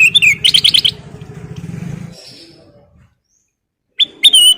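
Kutilang emas bulbul singing: a quick run of about six clear, loud notes, then a pause, then a short wavering phrase near the end. A low engine hum sits under the first half and fades away about two seconds in.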